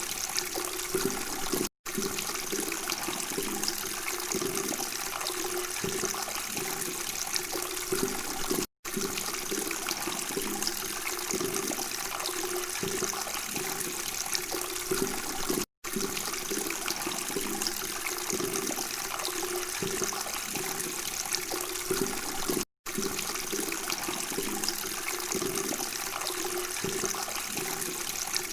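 Water flowing and babbling steadily. The sound cuts out to silence for a split second about every seven seconds.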